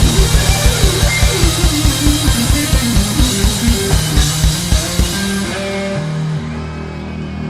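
Live rock band playing the end of a song: fast, even kick-drum beats under a descending guitar run, breaking off about five seconds in, then a held chord left ringing.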